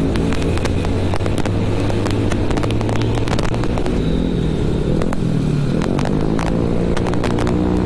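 A motorcycle engine running under the rider, its pitch dipping and climbing again around the middle as the bike slows for a bend and accelerates out of it. Many short crackles run over it.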